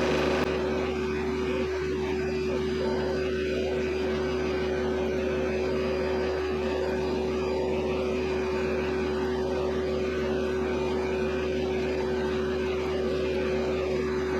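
Kioti CS2520S subcompact tractor's diesel engine running steadily under throttle while the backhoe digs, with a constant tone and no change in speed.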